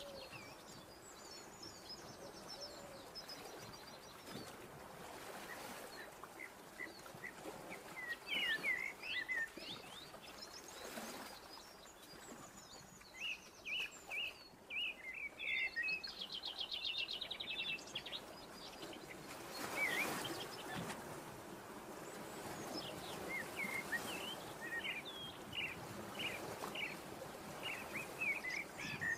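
Small birds chirping and twittering over a steady background hiss, with a fast trill about halfway through and a brief soft rush of noise about two-thirds of the way in.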